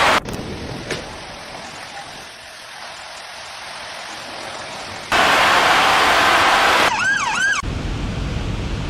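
Loud, steady rushing water noise that cuts abruptly in level several times, with a short, fast-wailing siren about seven seconds in.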